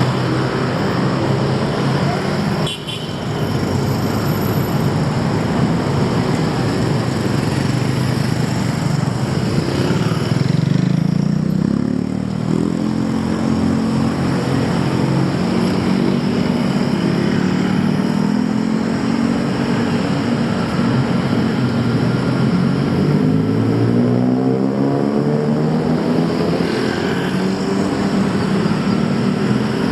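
Street traffic noise: motor vehicle engines running continuously, with an engine rising in pitch as it accelerates past about ten seconds in and again near the end.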